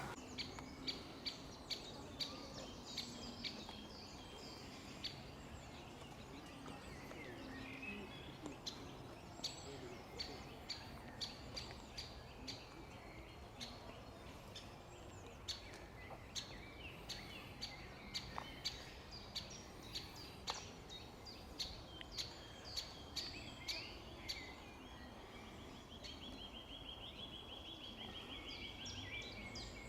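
Birds calling, faint: repeated short sharp calls throughout, and a fast trill about twenty-six seconds in.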